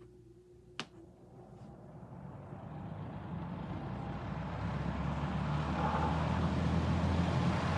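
Monarch Aire ML20R box fan switched on at low speed: a click of the switch about a second in, then the motor hums and the blades spin up, the air noise steadily growing louder. The motor has a slight rattle, which the owner thinks comes from worn-out thrust washers.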